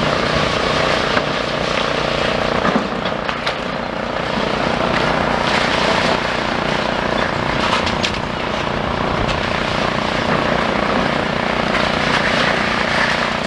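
Demolition excavator's diesel engine running steadily under load, with scattered knocks and crunches as it pulls down a brick and concrete wall, which partly collapses.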